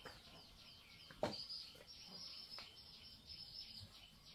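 Faint, rapid bird chirping repeating over and over, with one sharp knock a little over a second in. A thin high steady hum joins just after the knock and fades before the end.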